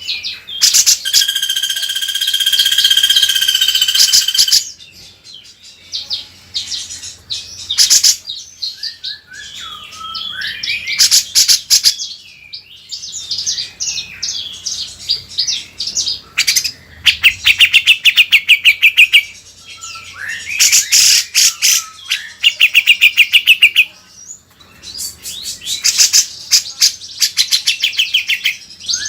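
Loud songbird song for a masteran song-tutor recording used to train cucak jenggot: a long buzzy trill in the first few seconds, then varied chattering phrases and several bursts of fast repeated notes.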